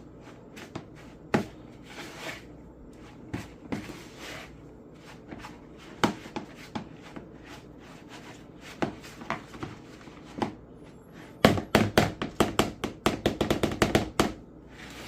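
A spoon stirring beignet dough made from mix and water in a bowl. Scattered knocks and scrapes give way, near the end, to about three seconds of fast, repeated clinking of the spoon against the bowl.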